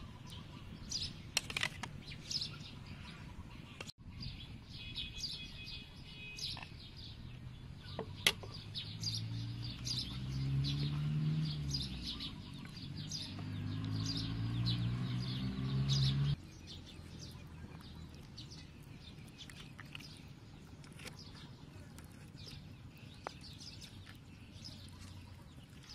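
Small birds chirping over and over. A low, wavering drone joins about a third of the way in and cuts off suddenly a little past halfway.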